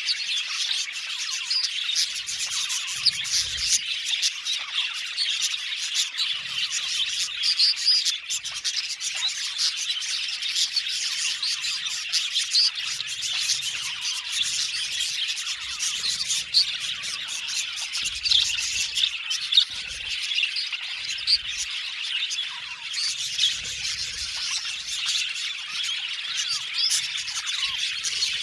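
A flock of budgerigars chirping and chattering together, a dense, continuous chorus of overlapping chirps with occasional squawks.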